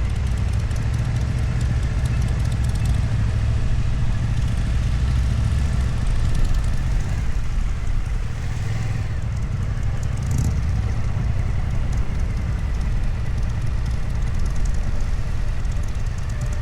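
Motorcycle engine running steadily, heard from on the bike while riding, with road and wind noise.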